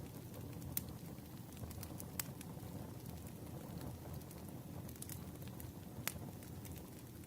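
Wood campfire crackling: a steady low rumble of burning with occasional sharp pops, the loudest about a second, two seconds and six seconds in.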